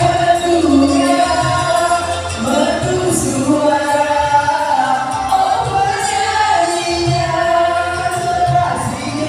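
Teachers singing a song of long held notes over instrumental backing with a steady bass beat.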